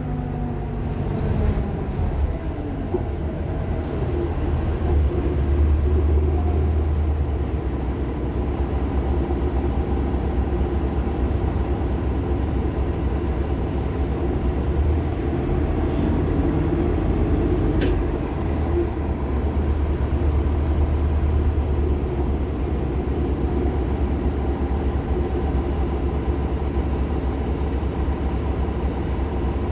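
Nova LFS Artic hybrid bus running, its Cummins ISL9 diesel and Allison H 50 EP hybrid drive giving a steady low rumble. A faint high-pitched squeal slides down in pitch twice, and two brief clicks come about two seconds apart near the middle.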